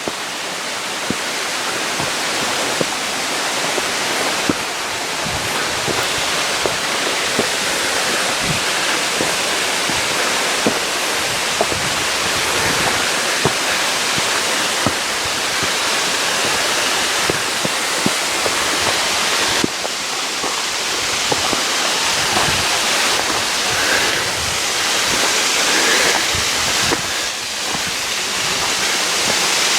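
Waterfall rushing as a steady, full hiss of water that grows slowly louder, with light clicks about once a second.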